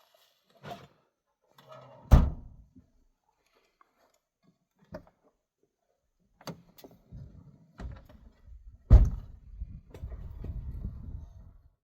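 Car doors being shut: two heavy thuds about seven seconds apart, with lighter knocks and rustling between and a low rumble after the second.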